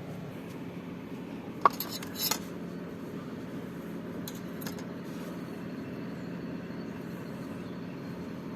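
Cooking utensils clinking against dishes or a pan: one sharp ringing clink about one and a half seconds in, then a quick cluster of lighter clinks and a scrape, and a couple of faint ticks later. A steady low background noise runs underneath.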